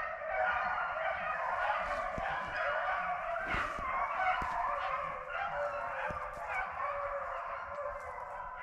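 A pack of rabbit hounds baying together in a continuous chorus while running a freshly jumped rabbit, many voices overlapping.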